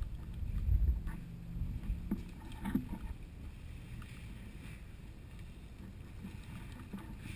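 Low rumbling noise on the microphone for about the first second, then quieter rustling with a few faint clicks.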